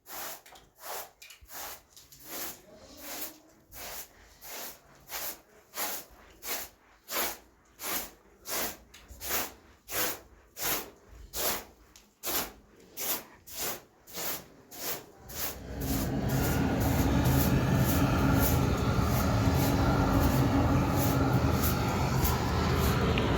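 Rhythmic scraping or brushing strokes, roughly one and a half a second. About two-thirds of the way through, an engine starts and runs steadily and loudly, drowning the strokes out.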